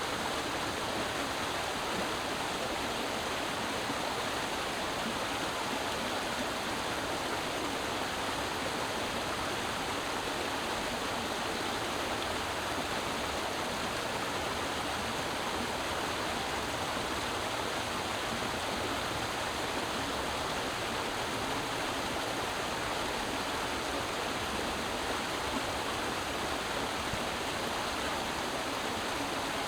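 Creek water flowing steadily over rocks, a continuous rushing and babbling.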